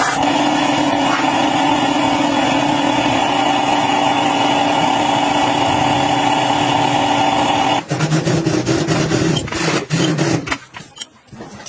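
A motor running steadily at an even pitch. At about eight seconds it changes to a lower, rougher note with clicks, then dies away near the end.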